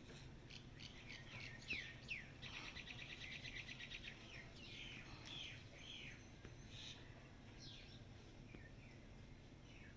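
Several small birds chirping and calling, with quick falling notes and a rapid trill lasting about two seconds, over a low steady background hum.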